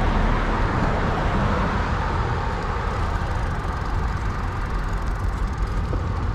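Steady rushing wind and road noise on the microphone of a bicycle rider in motion, with a strong low rumble.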